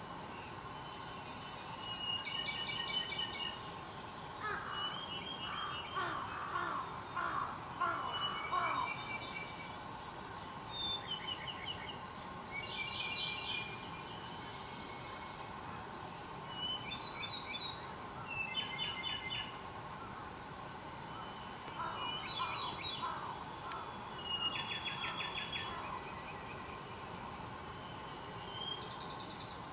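Wild birds singing and calling: short trilled phrases repeat every couple of seconds. A lower-pitched run of rapid calls comes in twice, about five seconds in and again past the twenty-second mark, over a steady faint background.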